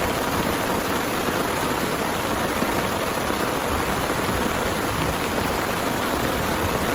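Heavy rain falling steadily, an even wash of noise with no let-up.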